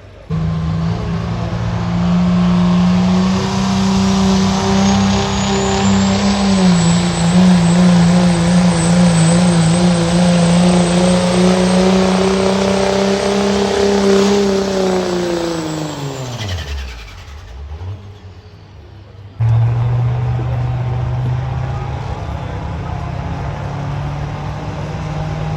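Diesel pulling truck's engine at full throttle under load, held at a steady high pitch with a high whistle above it. It winds down in pitch at the end of the pull. After a brief drop-out, an engine runs steady again.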